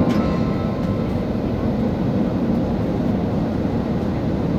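Steady low rumble of a jet airliner heard from inside the passenger cabin, with no distinct changes.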